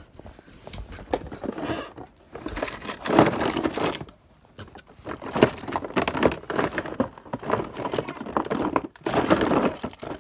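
Rummaging through craft and bathroom supplies: crinkling and clattering of containers and packets being picked up and moved, in three bursts with short pauses between.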